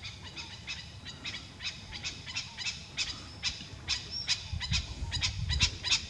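Birds calling with many short, sharp chips in quick, irregular succession, and a brief high whistle about four seconds in.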